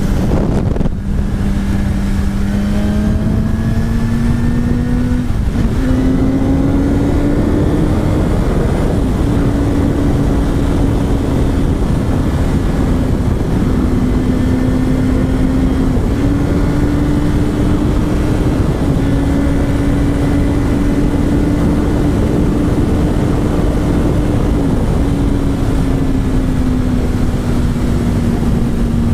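BMW S1000RR inline-four engine running at steady high revs while riding, under heavy wind noise on the microphone. The pitch drops briefly and climbs again about six times.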